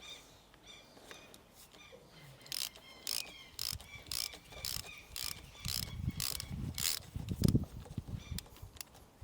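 Ratchet spanner clicking in a run of short metallic strokes, about two to three a second, starting a couple of seconds in, with a few duller knocks among them. It is working at the plugs of a Kubota track drive motor.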